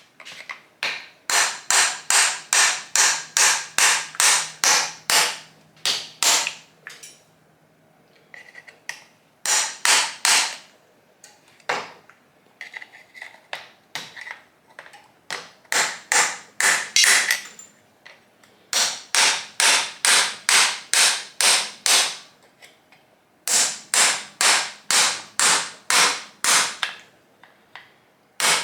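Hammer blows on the stuck cylinder jugs of an old air-cooled VW engine, struck to work them loose and off. The blows are sharp and come in runs of about three a second, with short pauses between runs.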